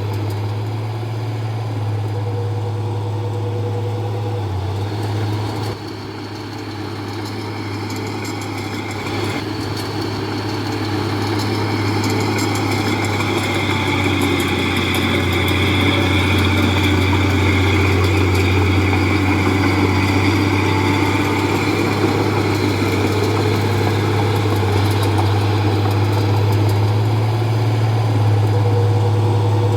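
Heavy diesel engine of earthmoving machinery running continuously with a deep, steady hum. It dips briefly about six seconds in, then grows louder over several seconds and stays at the higher level, with a higher whine added.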